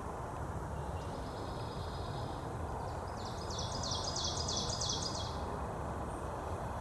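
A small songbird singing: a faint high trill about a second in, then a louder, rapid run of high repeated notes lasting about two seconds, over a steady low background rush.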